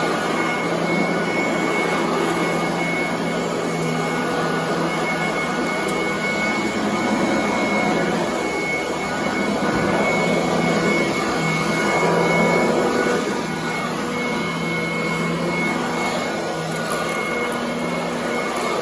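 Commercial upright vacuum cleaner running steadily on carpet: a constant motor hum and a thin high whine over the rush of air. It swells slightly about twelve seconds in and eases back a second later.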